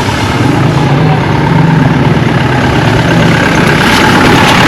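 A motor vehicle's engine running close by, with a steady low note, getting louder toward the end as it passes.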